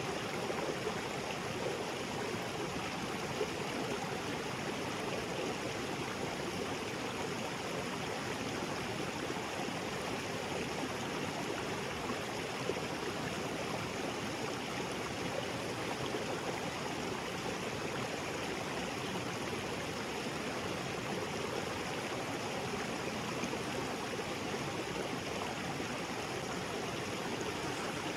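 Small waterfall and creek water splashing and flowing over rocks, a steady rushing with gurgling.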